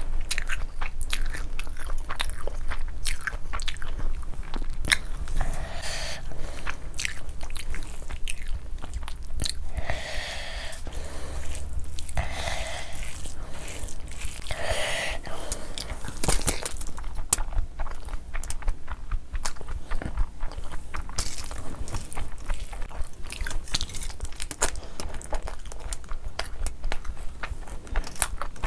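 Close-miked chewing of mouthfuls of spicy mutton liver curry and basmati rice, with many small wet mouth clicks.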